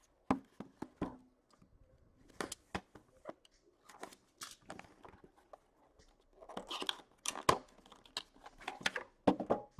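Cardboard and wrapping of a hockey card box being torn and worked open by hand: scattered crinkles, scrapes and clicks, busier in the second half.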